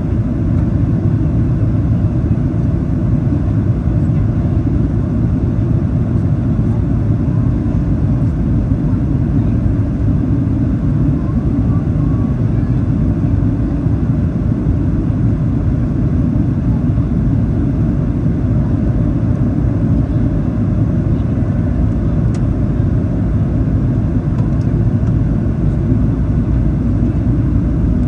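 Steady low rumble of a Boeing 737-800 in flight, its CFM56 engines and airflow heard inside the passenger cabin, during the approach descent.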